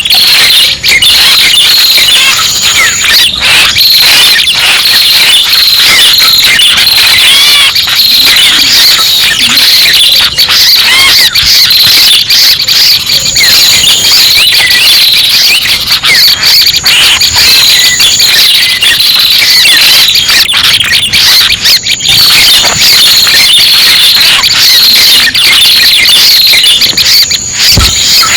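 Bird-lure recording of the red-headed prenjak's call: loud, dense, rapidly repeated high-pitched chirps and trills overlapping without a break.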